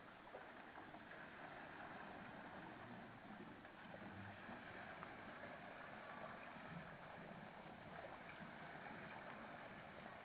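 Faint, steady rush of water from a saqiya, a traditional Egyptian water wheel, as it lifts and spills water.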